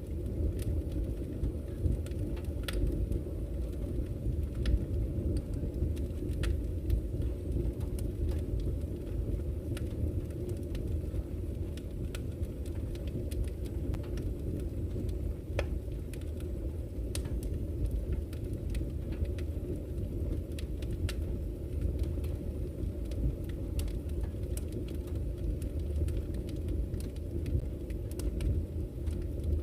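Campfire crackling with irregular sharp pops and snaps over a steady low rush of flowing river water.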